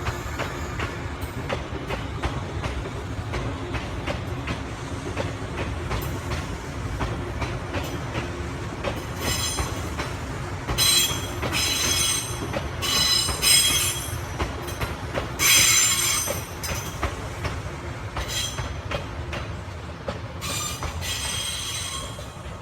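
Izu Kyuko Resort 21 'Kinme' electric train running on the rails with a steady rumble and wheel clatter. From about halfway in, its wheels squeal in repeated loud, high-pitched bursts, the metallic screech of wheels on the rail.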